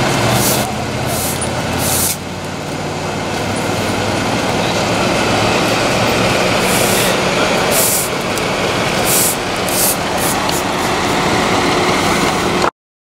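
Heavy diesel truck engine running loud, with short bursts of hissing now and then. The sound cuts off suddenly near the end.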